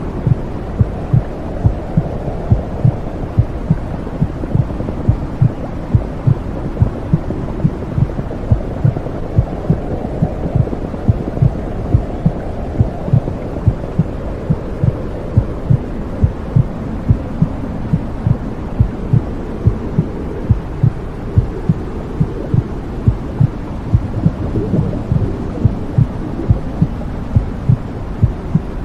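Womb sound for settling a baby: a regular heartbeat pulse over a steady low whooshing rumble.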